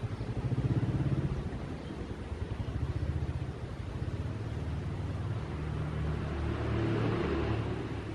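An engine running with a low, rapidly pulsing rumble that swells about a second in and again around seven seconds.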